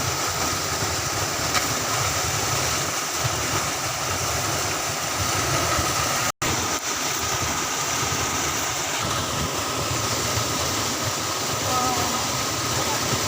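An engine running steadily with a constant rumble and hiss, broken by a sudden brief cut in the sound a little past the middle.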